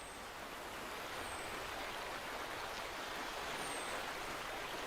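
Stream water flowing and rushing steadily, with a few faint, high, falling chirps over it.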